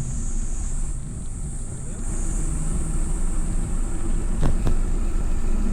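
Steady low rumble of wind and rolling noise on the microphone while riding, with two short clicks about four and a half seconds in.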